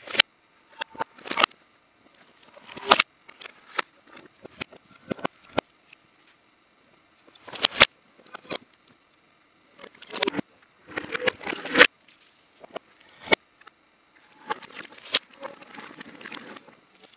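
Scavenging birds pecking, tugging and scratching at a dried cow carcass: irregular sharp taps and clicks among bones and dry grass, with denser rustling, scratchy spells about ten seconds in and again near the end.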